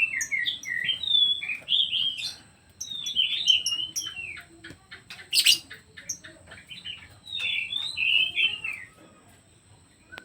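Pet songbird singing in quick, varied phrases of sliding chirps and chatter, with short clicks between them and one loud sharp click about five and a half seconds in. The song stops about nine seconds in.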